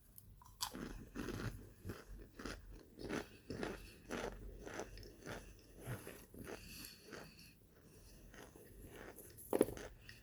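Close-up chewing and crunching of hard, brittle baked cornstarch chunks, many irregular crunches in quick succession. It thins out in the last few seconds, with one sharp, loud crunch near the end.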